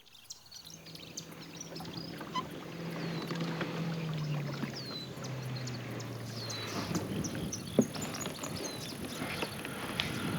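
Kayak being paddled: water swishing and splashing against the hull, with a sharp knock about eight seconds in. A low hum sinks slowly in pitch and fades over the first several seconds, and short high chirps repeat throughout.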